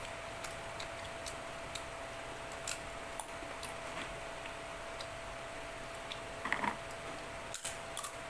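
Scattered light clicks and ticks of people eating, over a steady hiss and a faint steady hum, with a couple of slightly louder brief sounds near the end.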